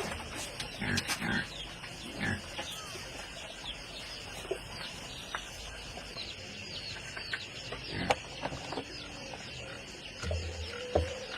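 A steady outdoor chorus of small animal calls, frogs and insects: an even high trill with many short repeated chirps. A few scattered knocks cut through it, the loudest about eight seconds in.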